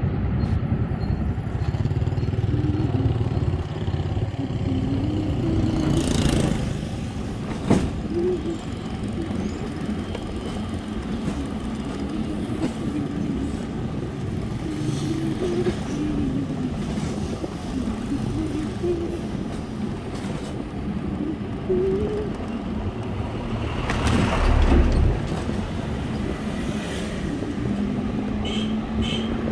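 Road traffic heard from a moving bike: engines rise and fall in pitch over a steady low rumble, with louder passing rushes about six seconds in and again around twenty-four seconds.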